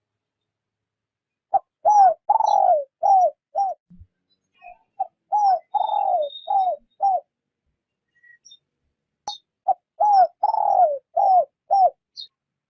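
Spotted dove cooing, three phrases of about five coos each, starting about a second and a half in, near the middle and near the end. Each phrase runs from short opening notes to longer coos that fall in pitch.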